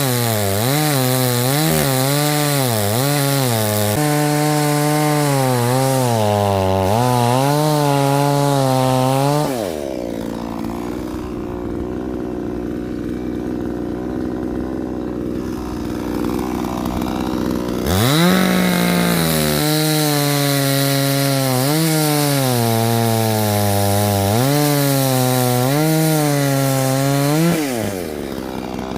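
Chainsaw cutting firewood: the engine runs at high revs with its pitch bobbing under load, drops to idle about ten seconds in, then revs up again for another cut about eight seconds later and eases off near the end.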